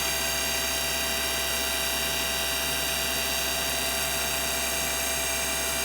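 The milling spindle of an Okuma VTM100 vertical turning center running steadily at 4,000 RPM: a steady whine of many pitches held at one speed.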